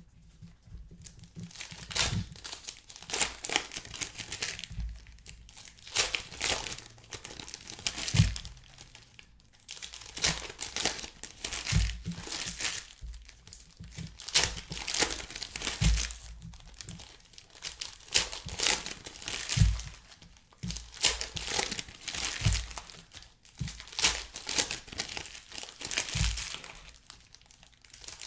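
Plastic trading-card pack wrappers being torn open and crinkled, in repeated bouts of crackling with brief pauses, and a soft low thump every few seconds as packs or cards are handled.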